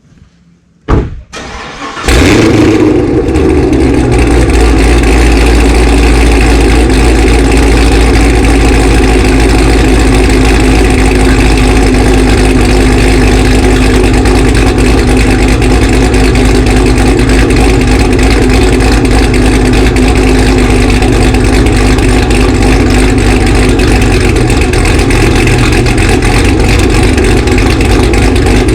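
Chevrolet Camaro ZL1 1LE's cammed, supercharged 6.2-litre V8, fitted with headers and a Corsa Extreme exhaust, starting up about two seconds in and then idling loudly and steadily.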